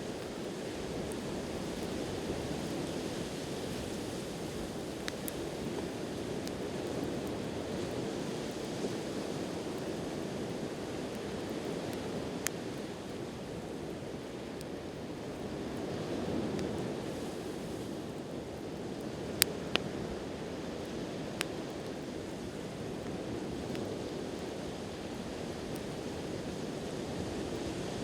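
Steady wash of sea waves with slow swells, over which a wood campfire gives a few sharp, scattered crackling pops, the loudest a pair about two-thirds of the way through.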